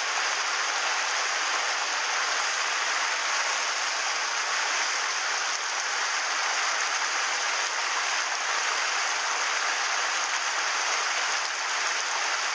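Mountain stream water rushing steadily, an even hiss of flowing water.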